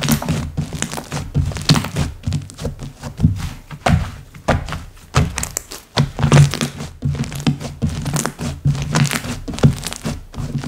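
Slime being squeezed, folded and pressed by hand, giving a quick run of sticky clicks and crackling pops over soft low thuds.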